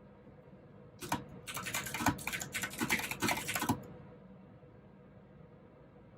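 Mechanical keyboard with clicky blue switches being typed on in a quick burst of keystrokes lasting about three seconds, starting about a second in.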